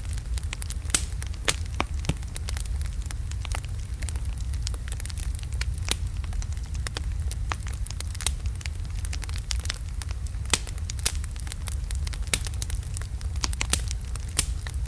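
Wood fire of large logs burning, with a steady low rumble and frequent sharp, irregular crackles and pops.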